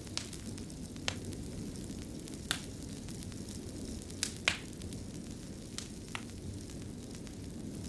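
Wood fire crackling in a stone fireplace: a steady low rumble of flames with sharp pops every second or so, the loudest about four and a half seconds in.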